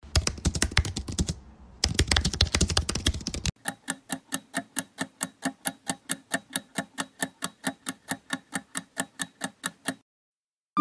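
Keyboard-typing sound effect of rapid clatter for about three and a half seconds, with a short break partway through. Then a countdown timer's steady clock-like ticking, about five ticks a second, which stops shortly before the end.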